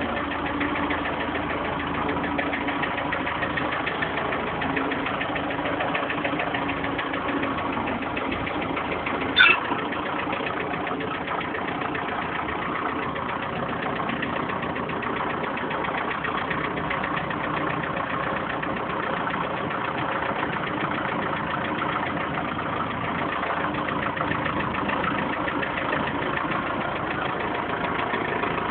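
Steyr 980 tractor's diesel engine idling steadily after a cold start. A brief, sharp high squeak cuts through once about nine seconds in.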